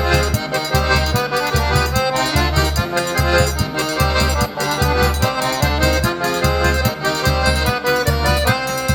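Instrumental forró pé de serra passage: an accordion plays the melody over a steady, even low bass beat, with no singing.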